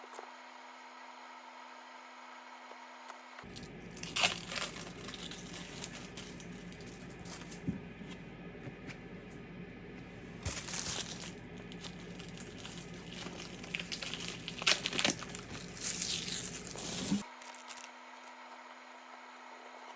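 Crinkling and tearing sounds from material being handled in the kitchen, starting about three seconds in and stopping sharply a few seconds before the end, with several louder sharp crackles.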